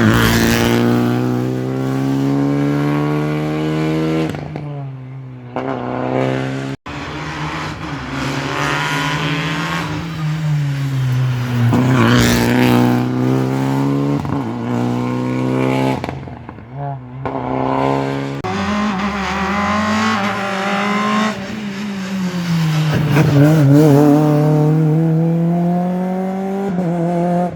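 Rally cars on a wet stage, several passes edited together: each engine revs up and down through gear changes as the car comes by at speed and fades away.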